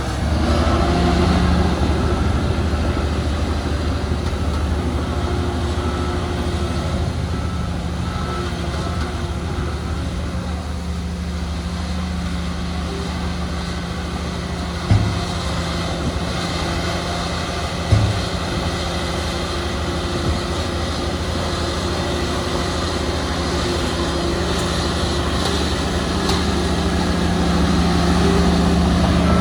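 Diesel engine of heavy earthmoving machinery running steadily under work, with two short knocks about halfway through, three seconds apart.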